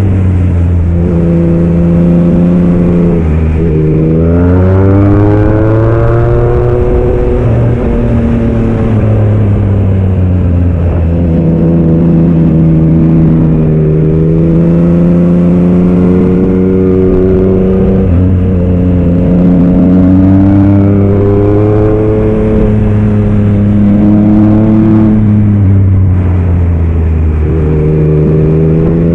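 2022 Yamaha MT-09 SP's 890 cc inline-three engine through a Black Widow aftermarket exhaust, running under load while riding. Its pitch climbs and drops several times as the throttle is opened and rolled off.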